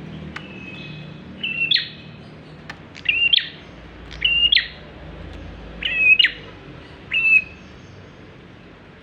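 Prinia (prenjak klawu) calling in five loud, short phrases about a second and a half apart. Each is a steady note that ends in a quick upward flick. The calls stop about a second and a half before the end.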